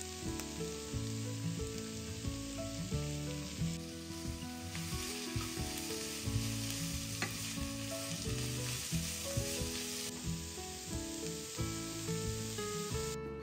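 Food sizzling as it fries in oil in a pan, starting suddenly and cutting off just before the end, with background guitar music playing underneath.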